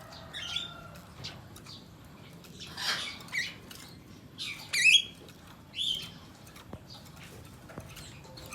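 Blue-crowned hanging parrot (serindit) giving a handful of short, high calls a second or two apart, the loudest about five seconds in.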